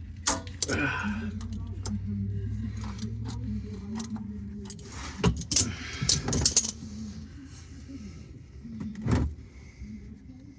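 Metal clinks, knocks and scrapes of a wrench and oil drain pan being worked under a pickup truck at the drain plug during an oil change, in irregular clusters that are loudest a little past the middle. A steady low hum runs under the first few seconds and then fades.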